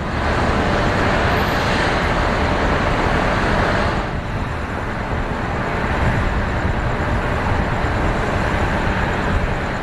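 Steady, loud vehicle running noise: a heavy low rumble under a broad hiss, easing slightly about four seconds in.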